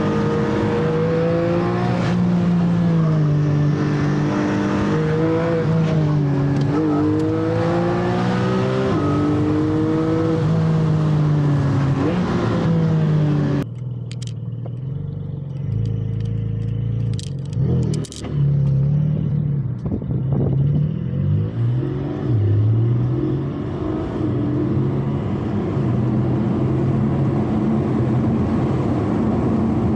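Porsche Cayman GT4's flat-six engine under spirited driving, its pitch rising and falling as it revs up and eases off between corners. About fourteen seconds in the sound drops suddenly to a quieter, lower engine note at gentler, steadier revs, with a couple of knocks.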